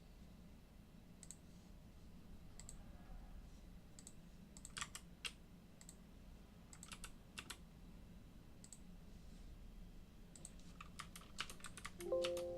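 Computer keyboard keys and mouse buttons clicking now and then, with a quick run of clicks near the end. A short pitched tone sounds just after the run and fades out.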